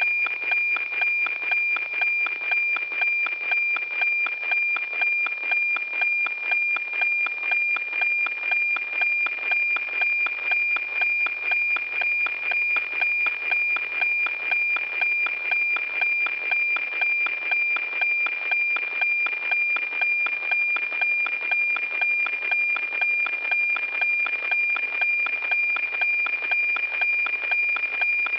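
NOAA-18 weather satellite's APT image signal as received by radio: a steady high whistle-like tone with a buzzy, scratchy texture and a regular tick-tock about twice a second, the line-sync pulses of the picture being sent.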